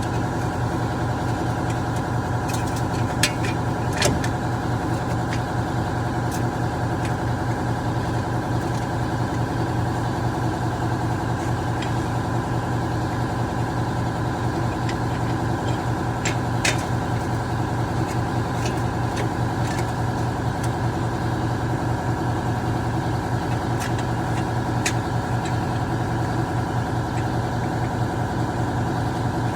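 An engine idling steadily with an even, unchanging drone, with a few sharp clicks a few seconds in and again near the middle.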